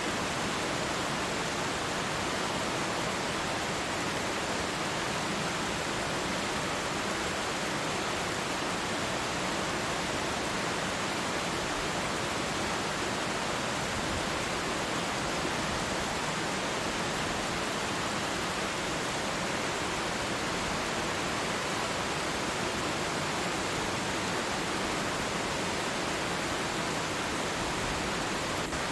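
Twin waterfall: a steady, even rush of falling water.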